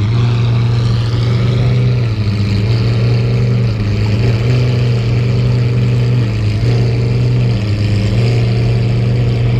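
Supercar engine idling close by, a strong steady note whose pitch dips slightly a few times.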